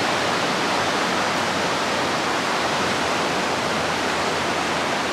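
Steady, even roar of ocean surf breaking on a sandy beach.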